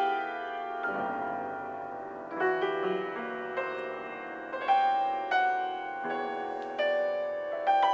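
Piano improvisation: slow, sustained chords struck one after another, each ringing and fading before the next, about every second or so.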